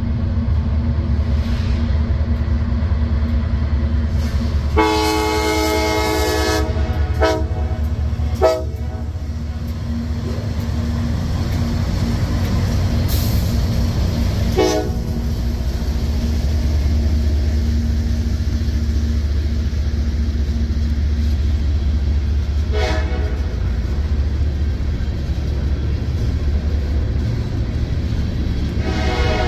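CSX freight train's diesel locomotives and cars passing close by with a steady low rumble, while the locomotive horn sounds one long blast about five seconds in, followed by several short toots spread through the rest. Open hopper cars roll past near the end.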